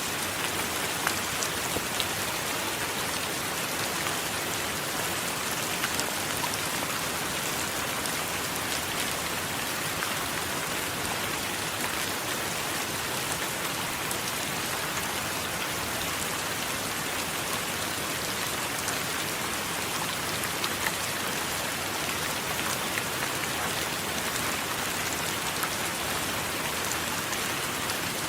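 Steady heavy rainfall, an even hiss with many small drop ticks scattered through it. No thunder is heard.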